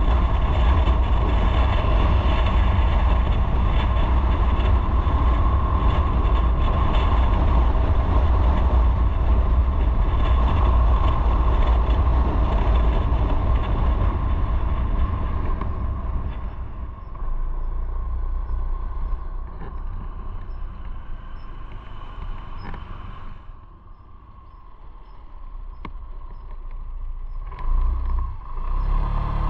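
Motorcycle on the move: steady wind and road rumble with the engine underneath. It dies down about halfway through as the bike slows, is quietest about two-thirds in, and picks up again near the end as it pulls away.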